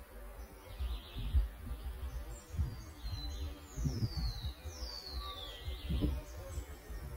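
Birds calling: three thin whistles, each sliding down in pitch, in the middle, with a faint chirp about a second in, over a low irregular rumble.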